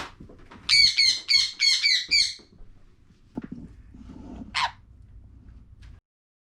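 Parrot squawking: a quick run of about six loud, shrill calls, then one short call about two seconds later.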